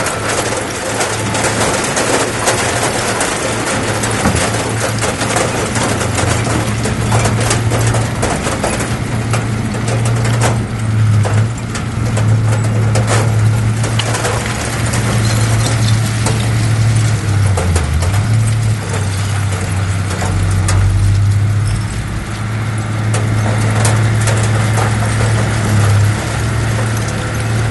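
Heavy diesel earthmoving machinery running steadily under load, with clanking and rattling over the engine note; the engine pitch sags briefly about two-thirds of the way through, as if lugging under load.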